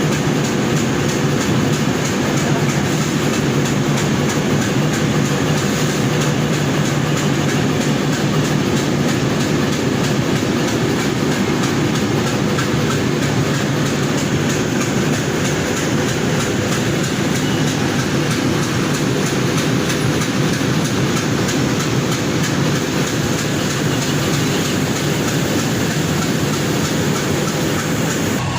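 Train running: a steady, loud mechanical rumble with a fast, even rattle.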